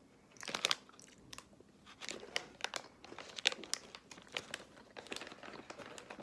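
Crunching as a crisp strawberry chocolate biscuit is bitten and chewed: a run of irregular, sharp crunches.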